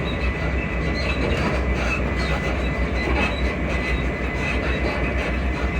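Class 334 electric multiple unit running, heard from inside the carriage: a steady rumble of wheels on rail with a faint high whine and scattered squeaks and clicks from the suspension.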